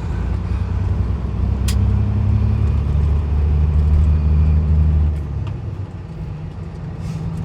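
Peterbilt 379's 550 hp Cat C-15 diesel engine pulling under load, its deep hum growing louder for about four seconds, then dropping back about five seconds in. A single sharp click about two seconds in.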